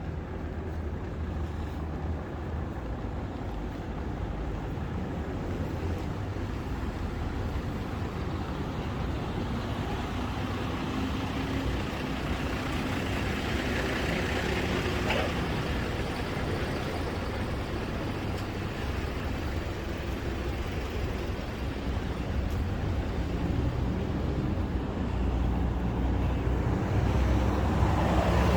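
Road traffic on a city street: a steady rumble of cars and trucks, with one vehicle swelling past about halfway through and the traffic growing louder near the end.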